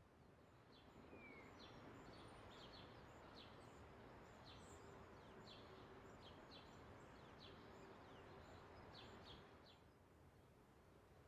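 Near silence: faint outdoor ambience with many brief, high chirps of small birds, from about a second in until just before the end, when the ambience drops a little.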